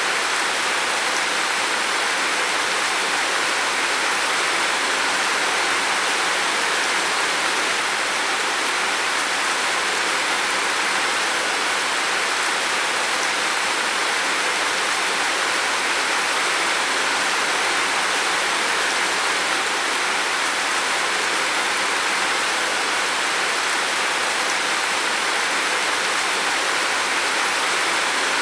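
Heavy rain falling on a roof, a steady dense hiss that holds even throughout.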